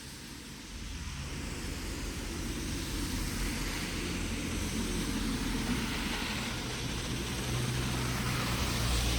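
Steady hiss of rain with a motor vehicle's engine hum that grows louder in the second half as it approaches.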